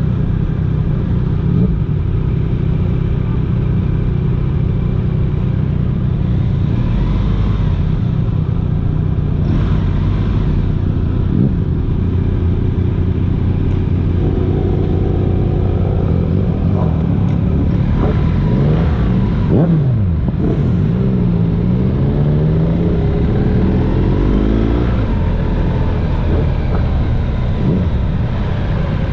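Motorcycle engine running on the move, with a steady low rumble and road and wind noise. From about halfway through, several engine tones rise and fall as revs change or other vehicles pass.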